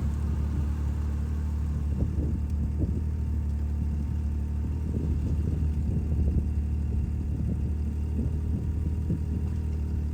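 Snowmobile engine running steadily, a constant low drone with rumbling over it.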